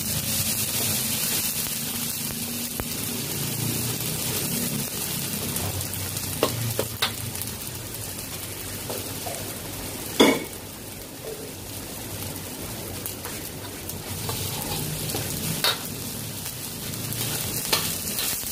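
Blended chili, garlic, ginger and onion paste sizzling as it is sautéed in oil in a pan, a steady frying hiss. Several knocks of the stirring utensil against the pan are heard, the loudest about ten seconds in.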